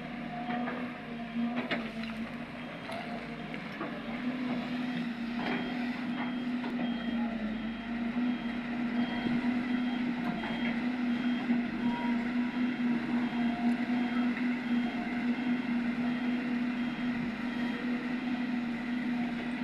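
Heavy diesel machinery running steadily with a constant engine hum, and a few sharp knocks about two seconds and five seconds in.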